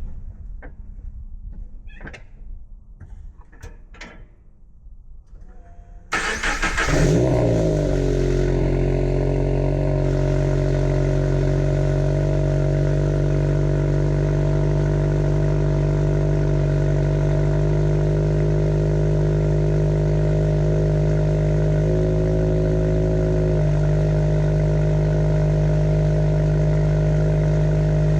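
Subaru BRZ / Scion FR-S / Toyota GT86 flat-four engine cold-starting through a Corsa cat-back exhaust. It cranks and catches with a short flare about six seconds in, then settles into a steady cold idle. A few light clicks and knocks come before the start.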